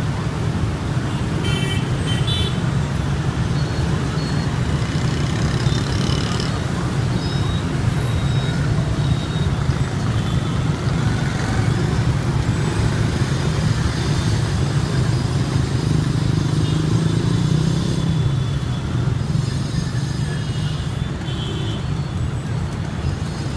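Dense motorbike traffic: many small engines running past in a steady drone, with a few short horn toots.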